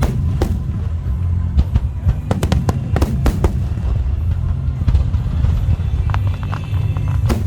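Aerial fireworks bursting: many sharp bangs and crackles in quick succession over a continuous low rumble, with music playing underneath.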